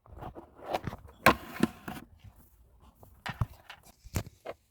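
Toys being handled: a series of sharp clicks and knocks with some rustling, the loudest knock about a second in.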